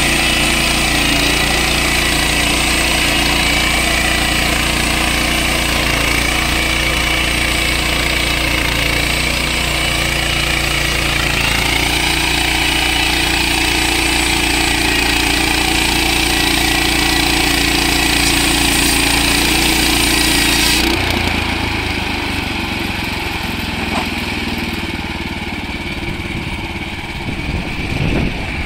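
Petrol engine of a portable band sawmill running at full throttle while the band blade cuts through a log, with a strong high hiss from the cut. About 21 seconds in, the hiss stops suddenly and the engine drops to a lower, steady idle.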